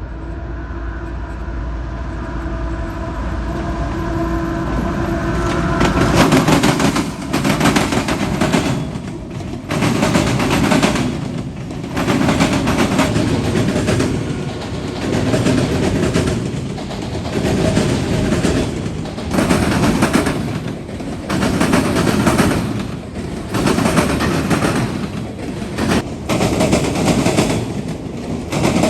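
CSX freight train crossing a railroad diamond. The diesel locomotives approach with a steady rumble and a pitched tone, then the cars' wheels pound over the diamond's crossing gaps in a loud clatter about every two seconds as each car passes.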